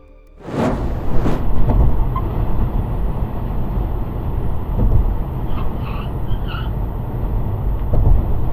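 Road noise from a moving vehicle as recorded by a dashcam: a steady, dense rumble of tyres, engine and wind that starts suddenly about half a second in.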